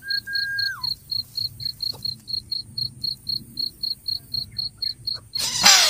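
A cricket chirping in a steady high-pitched pulse, about four chirps a second. A brief held whistle-like tone that drops away comes right at the start, and a sudden loud rush of noise with a rising sweep cuts in near the end.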